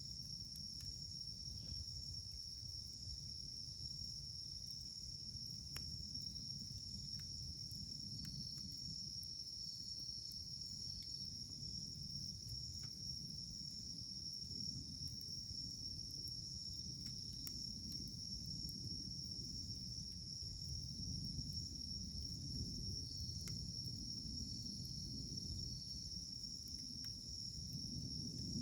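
Wood fire burning, with a steady low rumble and sparse faint crackling pops, over a constant high-pitched insect drone.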